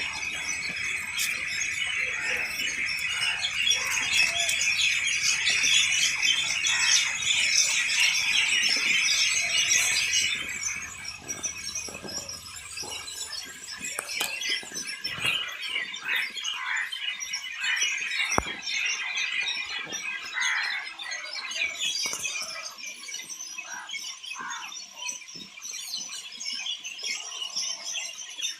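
Many birds chirping and twittering in a dense chorus, fuller and louder for the first ten seconds or so, then thinning to scattered chirps.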